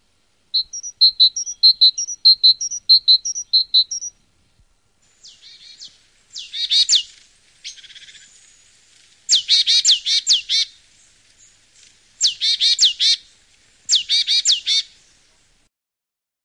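Wild songbirds singing: a run of quick repeated high notes for about three seconds, then, after a short pause, several short bursts of rapid, steeply falling notes.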